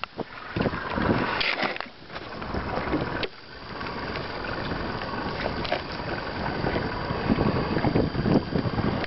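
Wind buffeting the microphone in an open fishing boat, with a few knocks and handling noises.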